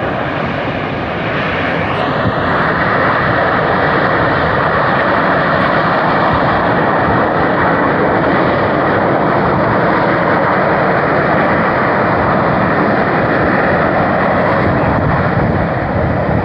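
Semeru volcano's crater venting ash continuously: a loud, steady rushing noise like a jet, which grows louder about two seconds in.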